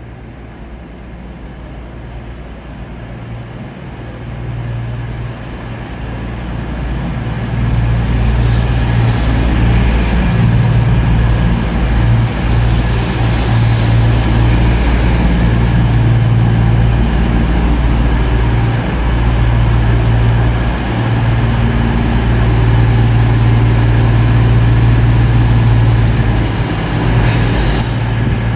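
Diesel passenger train at the platform, its engine drone growing louder over the first eight seconds or so and then running steadily close by. There is some hiss in the middle and a few clicks near the end.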